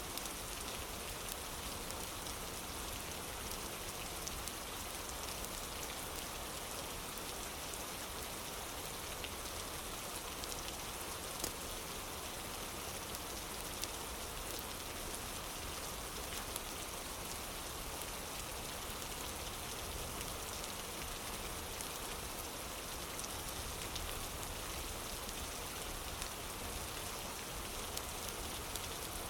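Steady rain falling on a surface, an even hiss with a few sharp ticks of single drops or crackles standing out now and then.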